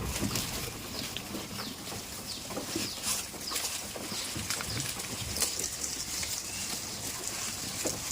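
Goats moving about and feeding: a steady run of small clicks, rustles and patters, with no clear bleat.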